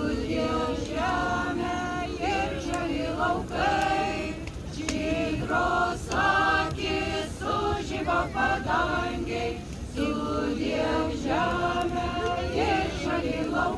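A group of voices singing a Lithuanian song together, in sung phrases with short breaths between them.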